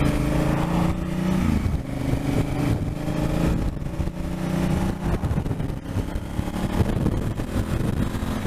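Motorcycle engine heard from the rider's position on the move, with wind rumble. Its note is steady at first, then falls about a second and a half in as the rider eases off, and it runs on at a lower, rougher note.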